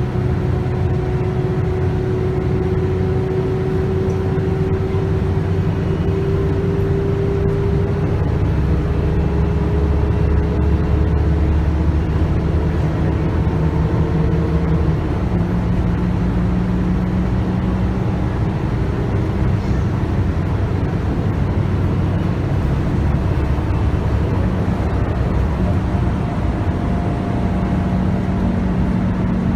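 A Scania K280UB bus's 9.3-litre five-cylinder DC9 diesel and ZF Ecomat automatic gearbox running under way, heard from inside the bus. A whine climbs slowly in pitch over the first half, then fades.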